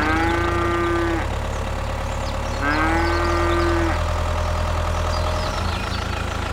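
Two drawn-out calls, each sliding up in pitch and then held for about a second, the second starting about two and a half seconds in, over a steady low engine hum.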